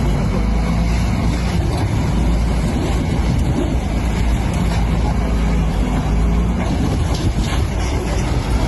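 A heavy vehicle's steady, loud, low rumble.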